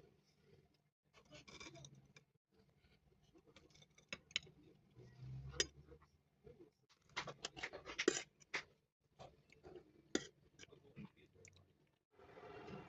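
Kitchen food-preparation handling noises: scattered scrapes, rustles and sharp clicks of utensils and ingredients being worked. A steady hiss begins near the end.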